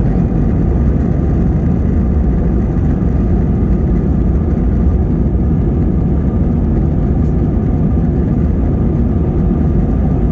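Airbus A320 cabin noise: the jet engines and airflow heard from inside the cabin as a steady, loud, deep rumble with a few faint steady tones above it.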